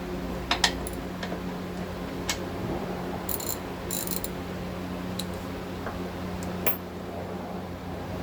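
Hand tools working on the strut top mount under the hood: a few sharp metallic clinks and two short bursts of ratchet clicking around the middle, over a steady low shop hum.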